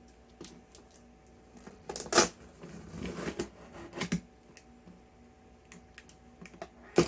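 Cardboard box of a new window air conditioner being opened and handled: scattered taps, clicks and scraping rustles, loudest about two seconds in, with a sharp knock near the end.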